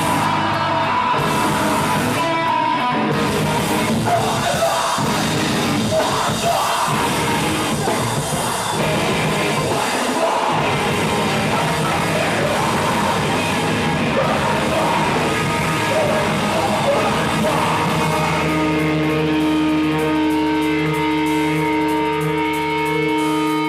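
Live rock band playing loudly, with guitars and drums and some sung or yelled vocals. About eighteen seconds in, the band settles into long held guitar chords.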